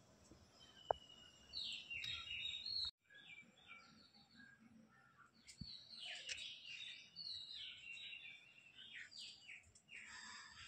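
Birds chirping, a busy run of short falling chirps, with a sudden break in the sound about three seconds in.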